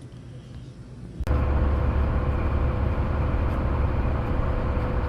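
Faint room tone, then about a second in a sudden jump to a steady loud drone in a truck cab: a semi-truck's engine and road noise on the move, with a steady low rumble and a faint steady hum above it.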